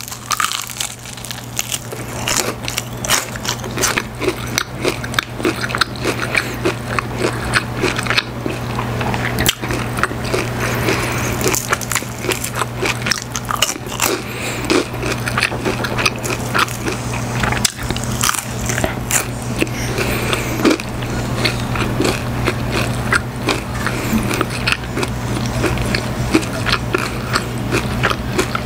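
Close-miked biting and chewing of crispy Korean fried chicken (wasabi chicken): a bite into the crust, then many irregular crisp crunches as it is chewed. A low steady hum runs underneath.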